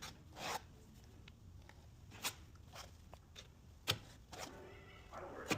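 Faint handwork noises: a short scrape and a few sharp, isolated clicks, as of tools being handled during body repair work.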